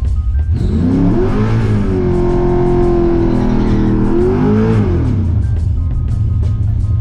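Car engine revving up, held at high revs for about two seconds, then dropping back, over music with a steady beat.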